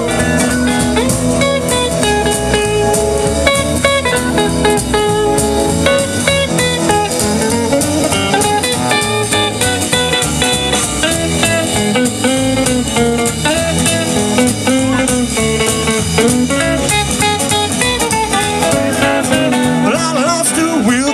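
Rockabilly band playing an instrumental break of a blues-flavoured song, with guitar taking the lead over a steady beat.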